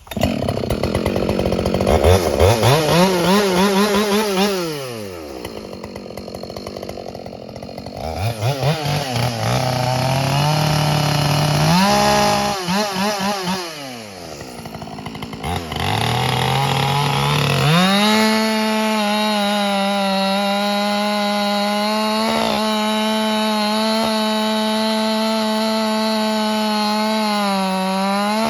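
Ported Husqvarna 572 XP two-stroke chainsaw revving: its pitch climbs to full throttle and drops back twice, then from about 18 seconds in it holds a steady wide-open run, dipping briefly near the end.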